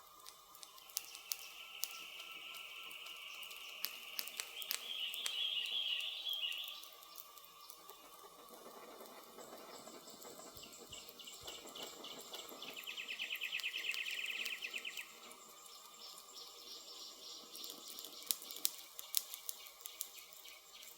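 Campfire crackling with scattered sharp pops, under woodland birds calling: a high rapid trill through the first third, and another loud rapid trill about two-thirds through.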